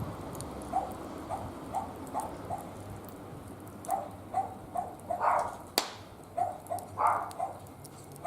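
A dog barking over and over in short, quick barks, getting louder in the second half, with one sharp crack a little past the middle.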